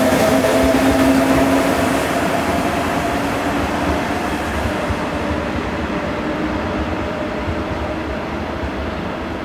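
A train running past and pulling away: a steady hum over rolling rumble, the pitch sagging slightly as the sound fades.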